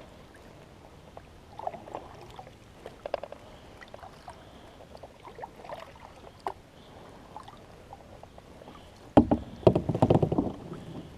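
Scattered knocks and clicks of fishing gear being handled in a small boat, with a louder flurry of knocks against the hull near the end.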